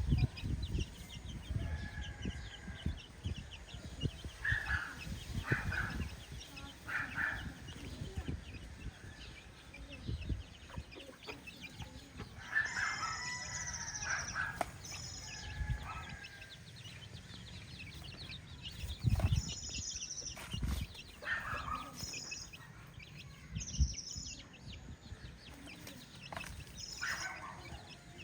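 Free-range chickens clucking on and off, with a longer call about halfway through that sounds like a rooster crowing.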